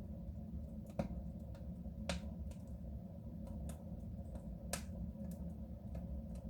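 Wood fire crackling in a soapstone stove: sharp pops about one, two and nearly five seconds in, the first the loudest, with fainter ticks between them, over a steady low rumble.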